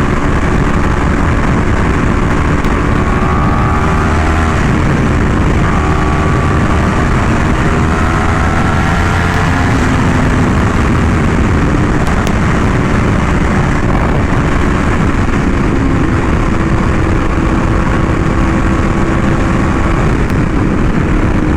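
Yamaha R1M's crossplane inline-four with an SC Project exhaust, ridden at speed. The engine note climbs in pitch over several long pulls, with short drops between them, under steady wind rush.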